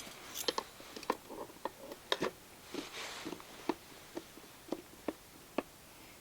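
Metal utensils clicking and tapping irregularly, a dozen or so light strikes, as a grilled pork chop is cut from the bone. A brief soft hiss comes about halfway through.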